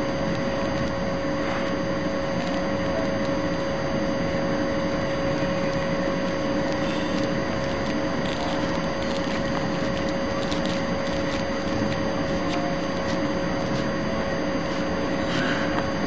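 Steady mechanical hum and hiss with a constant whining tone, unchanging throughout, with a few faint ticks.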